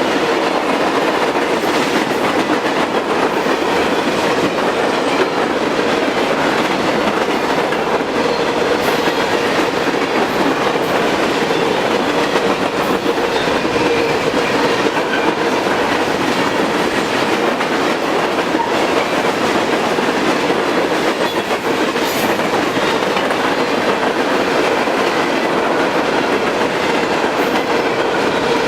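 Freight train cars rolling past, a steady loud rumble of steel wheels on rail with a steady hum and scattered clicks from the rail joints.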